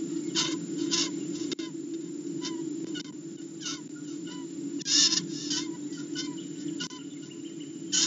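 Short, shrill bird screams repeated irregularly, one or two a second, the loudest about five seconds in: the distress cries of a live prey bird in a falcon nest box. Under them runs a steady low hum.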